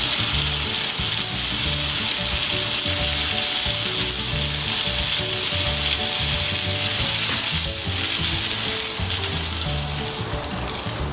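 Dried rice pouring in a continuous stream into a cardboard tube, a steady dense hiss that thins out near the end.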